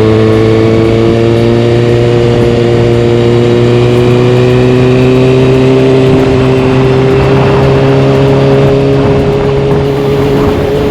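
Kawasaki Ninja ZX-6R's inline-four engine running under steady throttle through a carbon-fibre Delkevic exhaust, its pitch climbing slowly as the revs build in one gear.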